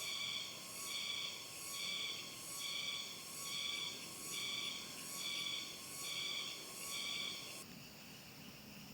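Insects calling in the wild: a loud, high, pulsing call repeating a little over once a second over a steady thin tone, cutting off abruptly near the end and leaving a steadier insect chorus.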